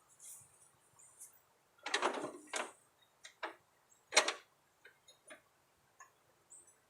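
Tools and parts being handled while working on a mower deck's spindles: a series of sharp knocks and clicks, the loudest about two seconds in and again near the middle, with smaller clicks after.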